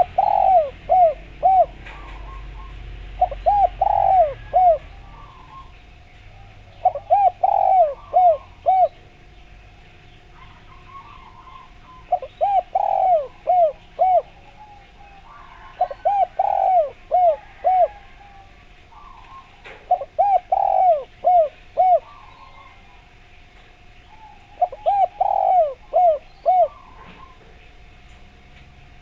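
Spotted dove (derkuku) cooing: seven phrases of four or five quick coos, one phrase about every four seconds.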